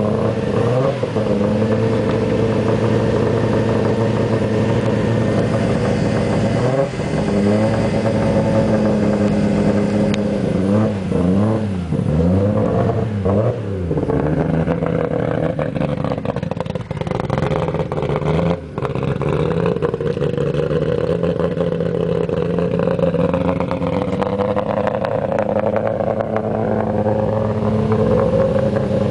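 Freshly built Nissan RB25DET turbocharged straight-six, fitted with a Garrett TO4Z turbo and solid-lifter cams, running on its first start-up: steady idle with a short rev about a quarter of the way in and a quick run of throttle blips a little before the middle, then settling back to a steady idle.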